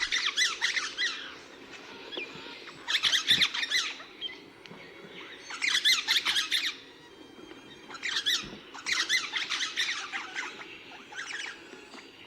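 Eastern rosella calling: about five bursts of high-pitched chattering calls, a few seconds apart, over a steady low background hum.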